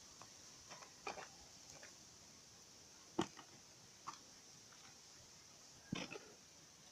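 A few separate knocks and scrapes of kitchen utensils, a cooking stick and a metal pot and plate handled while ugali is turned out and shaped, the sharpest knock a little after three seconds and a short cluster near the end, over a faint steady high hiss.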